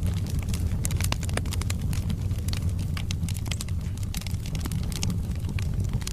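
Wood fire burning, with frequent sharp crackles and pops from the logs over a steady low rumble.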